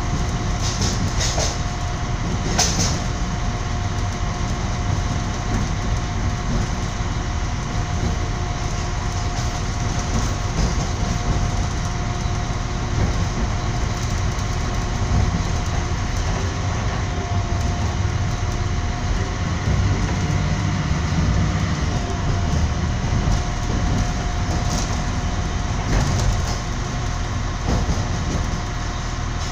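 Passenger train running along the track, heard from inside the carriage: a steady rumble of wheels on rails with a thin constant hum and a few sharp clicks.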